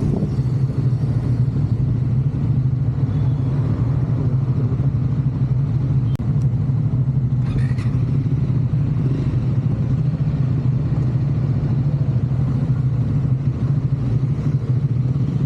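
Triumph Scrambler 400 X's single-cylinder engine running at a steady, unchanging speed.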